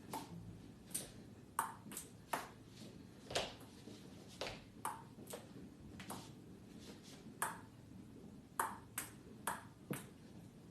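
A series of light, sharp taps at an irregular pace, about twenty in all, many with a brief ringing ping.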